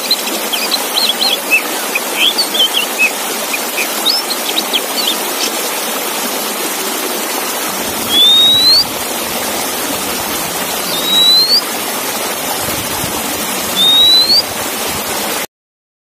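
Oriental magpie-robin (kacer) song: a run of quick, short chirps over a steady hiss, then three loud rising whistles about three seconds apart. The sound cuts off suddenly near the end.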